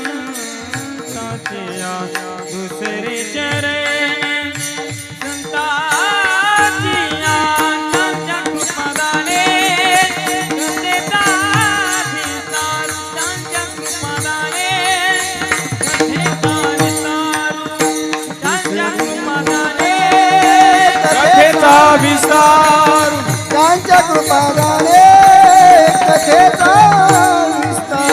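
Marathi Warkari bhajan: a devotional melody sung with wavering ornaments over a steady drone, with taal hand cymbals and a drum keeping the beat. The singing grows louder about two-thirds of the way through.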